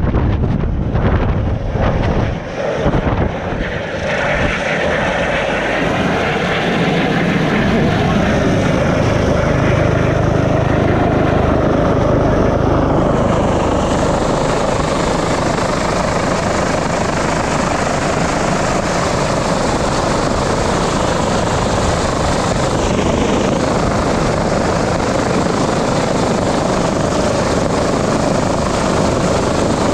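Helicopter rotor and turbine running steadily, loud and close. Wind buffets the microphone in the first few seconds.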